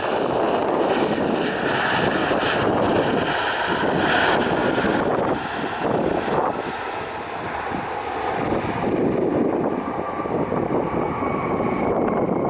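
Jet airliner engines running loud and steady, with a thin high whine over the noise, and wind buffeting the microphone.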